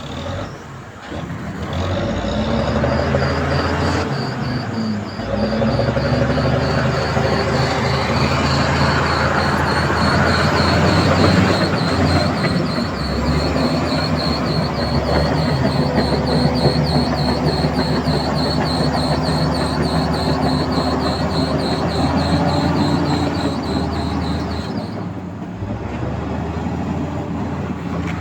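Crawler bulldozer's diesel engine running steadily under load, with a high, evenly pulsing squeal from the tracks over it. The squeal fades about 25 seconds in.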